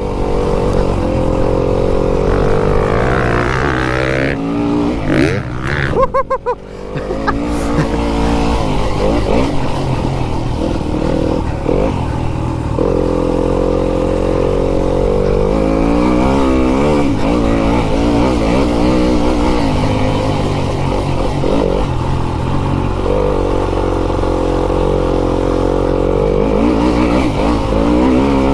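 Fantic enduro dirt bike engine under a rider's throttle on a motocross track, its pitch rising and falling as it is revved and eased off. About six seconds in the throttle is briefly shut and the engine note drops away before it picks up again.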